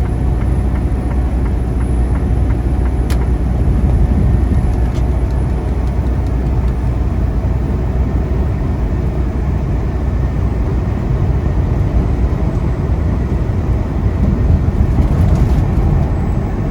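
Semi truck running at highway speed, heard from inside the cab: a steady low engine drone with road noise, the truck pulling hills at full speed with an empty trailer.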